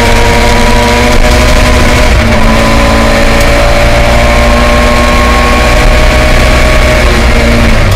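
Connaught Warrior 2.4 engine of a 1979 Ford Escort Mk2 rally car running at high revs under load, heard from inside the cabin. It changes up a gear through the Quaife sequential gearbox about two seconds in, and its pitch then climbs steadily, dipping again near the end.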